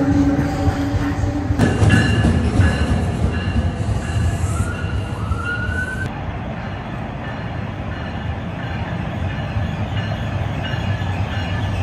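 NJ Transit commuter trains moving through a station: a multilevel train passes close with a steady hum. The sound then changes abruptly twice, first to clicks and a rising whine, then to the rumble of an approaching locomotive-hauled train with faint wheel squeal.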